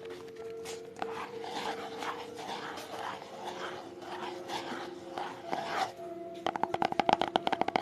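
ASMR triggers: fingers scratching or rubbing an object in even strokes about twice a second, then a fast run of taps near the end.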